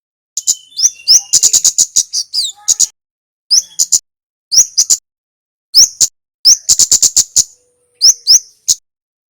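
Male kemade flowerpecker singing: sharp, high-pitched ticking notes and quick rising chips in rapid bursts of about half a second to a second, with short pauses between them.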